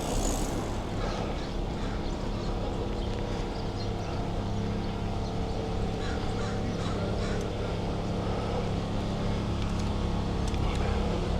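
Steady low hum of a vehicle engine idling close by in traffic.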